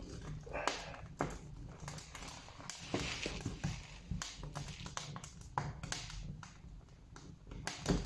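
Small kindling fire of dry twigs and leaves catching in a fireplace, crackling with irregular sharp snaps and pops, with a brief hiss about three seconds in.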